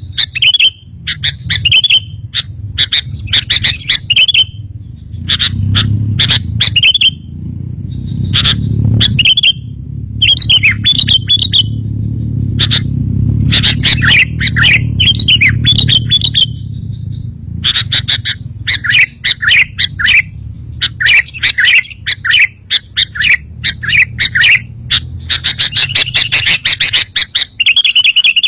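Sooty-headed bulbul (kutilang) singing: loud short chirping notes repeated in quick runs, over a steady low rumble. A fast, even trill comes in near the end.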